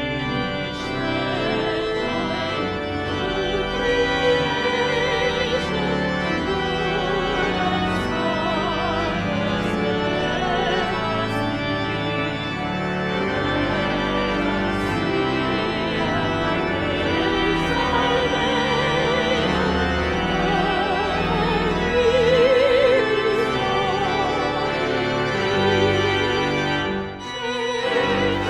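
Church organ playing with singing voices over it, the voices wavering with vibrato over sustained organ chords. The music dips briefly near the end before going on.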